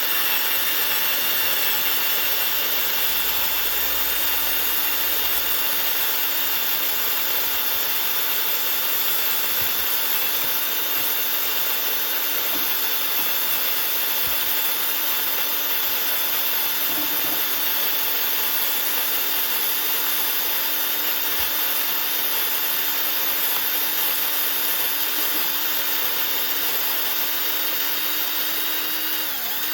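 Handheld power drill turning a manual burr coffee grinder by the hex bolt on its top, running at one steady speed while the burrs grind coffee beans. It winds down with a falling pitch and stops near the end.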